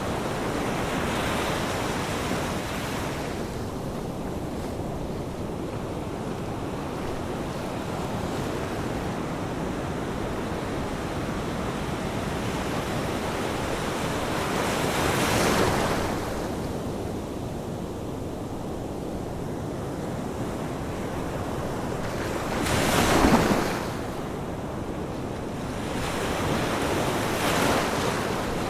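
Ocean surf: a steady rush of waves, with a wave breaking louder just past halfway, a stronger one about four fifths in, and a third near the end.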